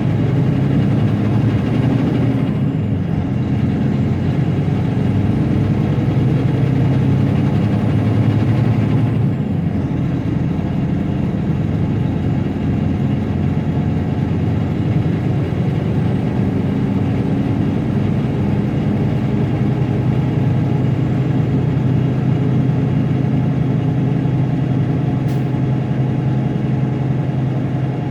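Semi truck's diesel engine and road noise droning steadily while driving, heard from inside the cab.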